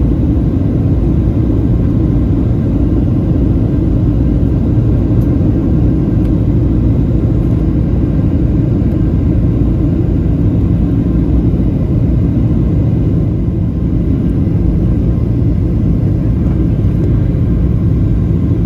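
Aircraft cabin noise in flight: a steady, loud, low drone of engines and airflow, unchanging throughout.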